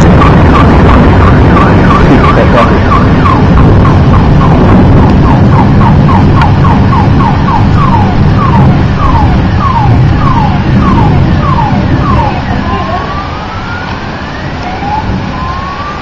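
Car alarm going off and cycling through its tones: rapid chirps, then slower falling whoops, then long rising sweeps near the end. Underneath is the loud rumble of a thunderstorm with heavy rain, which eases off about three quarters of the way through.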